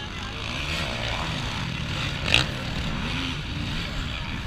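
Motocross motorcycle engines revving, their pitch rising and falling as they ride the course, with one sharp crack a little over two seconds in.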